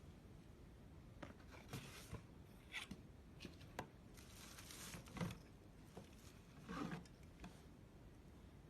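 Faint handling noises over near-silent room tone: a scatter of small clicks and short rustling scrapes, the loudest a click about five seconds in.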